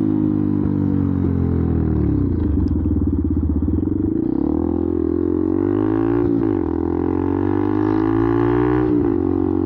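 Benelli TNT 125's single-cylinder engine running loud through a self-fitted aftermarket exhaust while being ridden. The engine note falls away about two seconds in, then twice climbs and drops sharply, near the middle and near the end.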